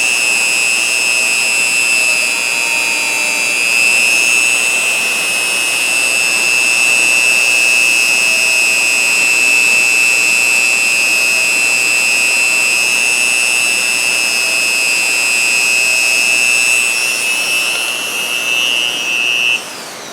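Dremel rotary tool running at high speed with a steady high-pitched whine as it works on a ratchet, then switched off and winding down near the end.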